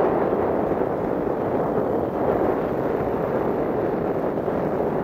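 Heavy rain and wind: a steady rushing noise, with wind buffeting the microphone.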